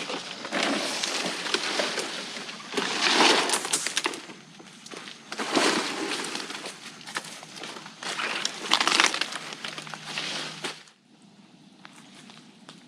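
Footsteps of a person pushing through dense undergrowth: crunching leaves and snapping twigs and brush, in a loud burst every couple of seconds, stopping near the end.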